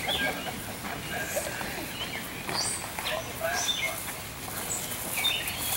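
Birds chirping outdoors: short, scattered high calls, some sweeping quickly up or down in pitch.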